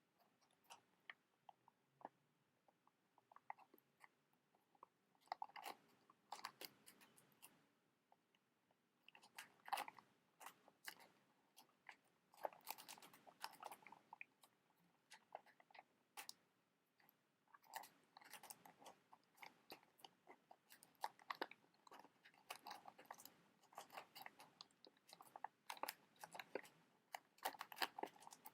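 Soft, close-miked crinkling and clicking in irregular bunches, from a box of matches and its plastic packaging being handled.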